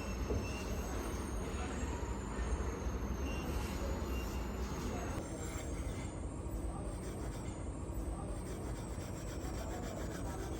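Steady scraping and rubbing noise of metalworking in a foundry, over a low rumble, with faint rapid ticking in the second half.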